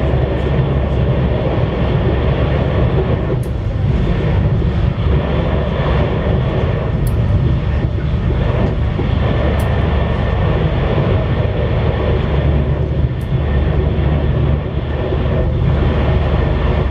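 CRH1A high-speed electric multiple unit running along the line, heard from inside the carriage: a steady low rumble of wheels and running gear, with a few faint clicks.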